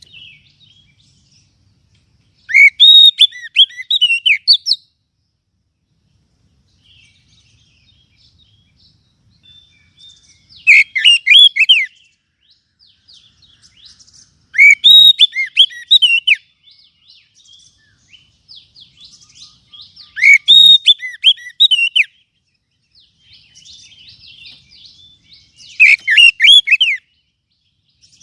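Oriental magpie-robin (kacer) singing: five loud phrases of quick, rising and falling whistled notes, a few seconds apart, with soft twittering between them.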